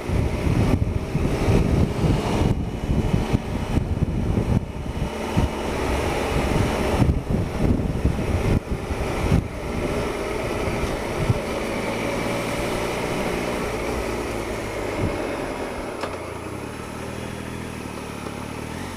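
Triumph Explorer 1215cc three-cylinder engine running at low speed on a rough narrow track, with frequent knocks and rattles from bumps over the first half. The engine note then turns steadier and a little quieter toward the end.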